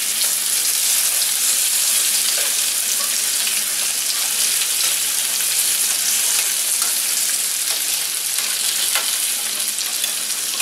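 Bacon and pierogies sizzling steadily in a hot copper-coloured non-stick frying pan, with occasional light clicks of metal tongs against the pan as the pieces are turned.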